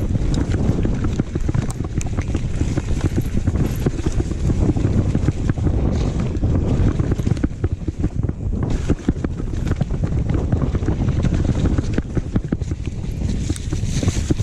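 Wind buffeting the microphone of a camera riding on a downhill mountain bike, with steady rumbling from the tyres over the trail and constant quick rattles and knocks from the bike over bumps.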